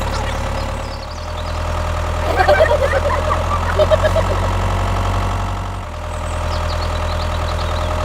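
Mini tractor engine idling steadily, its low hum shifting slightly about a second in and again near the end. A few short high chirps come through a couple of seconds in.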